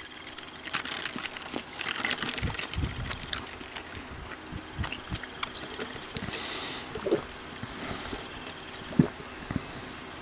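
Close-miked eating sounds of fried fast food being chewed: crisp crunchy crackles in the first few seconds, then wetter mouth and swallowing noises.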